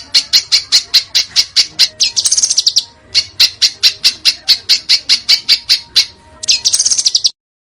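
Songbird calling in a rapid run of sharp, high chirps, about five a second. Twice it breaks into a fast, harsh rattling trill, about two seconds in and again near the end. The sound cuts off abruptly just before the end.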